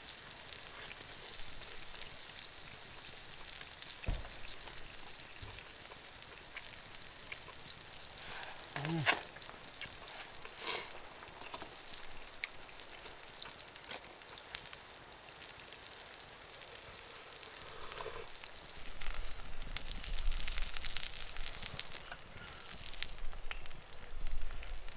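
Horumon (offal) sizzling as it fries over a campfire, a steady hiss with scattered crackles and pops. There is a short pitched sound about nine seconds in, and a low rumble with busier crackling over the last few seconds.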